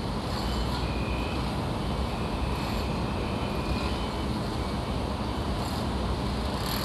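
Construction site ambience: a steady low rumble of machinery and traffic, with a few brief faint high tones over it.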